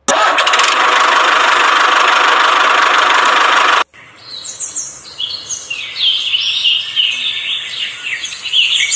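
A loud, steady hiss that cuts off abruptly about four seconds in. After it, small birds chirp many times in quick short calls.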